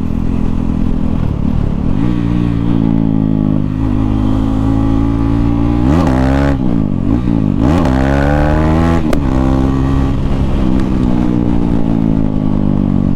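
KTM 390 Duke single-cylinder engine running without an exhaust, loud and steady under way. Around the middle its pitch drops and climbs sharply twice, then it settles back to a steady note.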